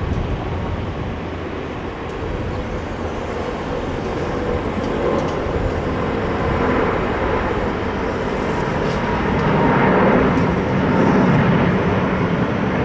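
Jet aircraft engines, a steady rushing rumble that grows gradually louder and peaks near the end.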